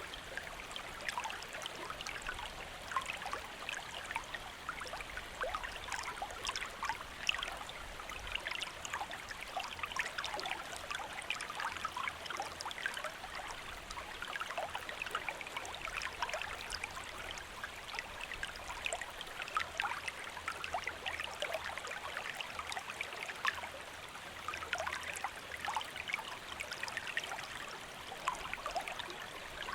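Stream flowing steadily, with a constant patter of small splashes and gurgles over the rush of the water.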